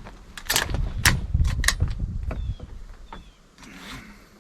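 A quick string of about four rifle shots from an AR-15-style rifle in the first two seconds, followed by a few fainter clicks.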